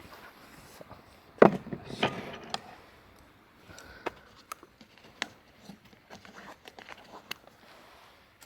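Camp handling sounds: a loud thump about a second and a half in, another knock just after, then scattered small clicks and taps.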